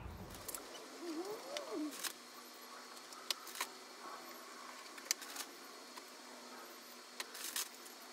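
Plastic cable ties being fastened around wiring: sharp clicks in three pairs, with a short squeak rising and falling in pitch about a second in.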